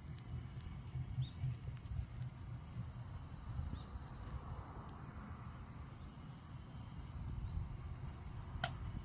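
Firewood burning in a wood stove: a low steady rumble with a few faint crackles and one sharp pop near the end.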